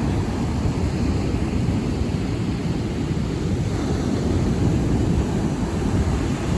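Wind buffeting the microphone at the seashore, a steady low rumble over the wash of sea surf.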